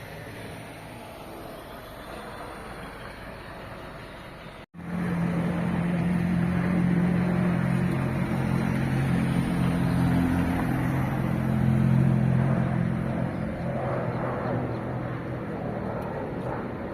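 Aircraft engines running at an airport, a steady drone with low humming tones. It becomes much louder after an abrupt cut about five seconds in.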